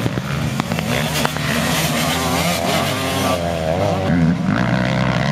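Motocross motorcycle engines revving up and down, more than one running at once.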